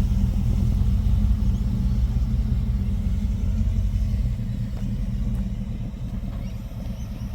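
Car engine rumbling low and steady, gradually getting quieter.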